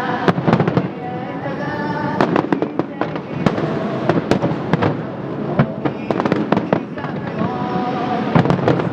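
Aerial fireworks bursting in quick succession: a dense string of sharp bangs and crackles.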